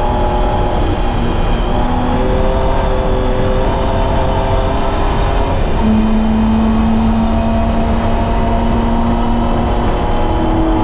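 BMW E30's M20B25 straight-six engine under racing load. Its pitch climbs over the first few seconds, holds steady for about four seconds past the middle, then climbs again near the end.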